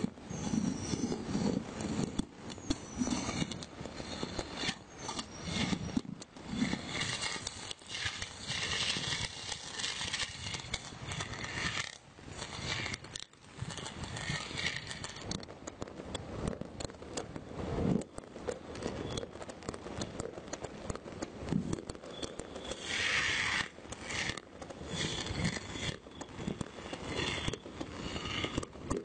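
Fireworks and firecrackers going off: a dense, irregular run of pops and crackles, thickening into a brighter burst of crackling about three-quarters of the way through.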